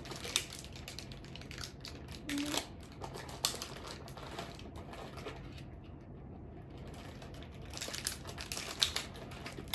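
Plastic snack wrappers crinkling and crackling in the hands, a run of irregular clicks and rustles that eases off for a couple of seconds in the middle and picks up again near the end.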